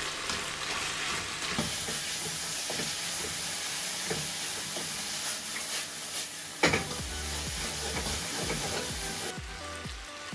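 Chicken and prawns sizzling in a wok as they are stirred with a slotted spatula, with small scrapes and taps of the spatula against the pan and one sharp knock about two-thirds of the way in.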